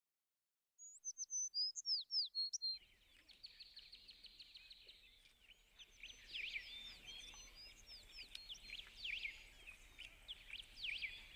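Birdsong starting about a second in: a quick run of sharp falling chirps, then a busy chorus of many birds chirping and trilling.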